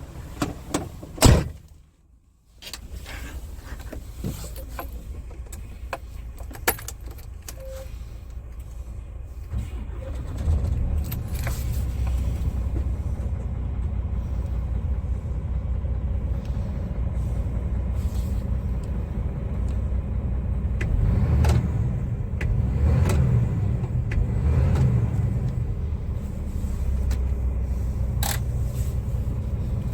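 A few clicks and knocks, then about ten seconds in the low, steady running of the Scania R450's diesel engine.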